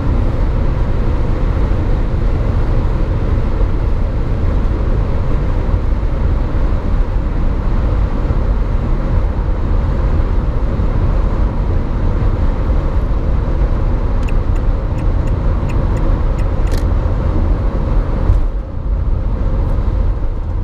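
Renault Trafic 1.9 dCi four-cylinder turbodiesel running hard at high speed, heard from inside the cab, with a steady low drone of engine, wind and road noise. A run of faint, even ticks comes near the end, and the noise eases off briefly about eighteen seconds in.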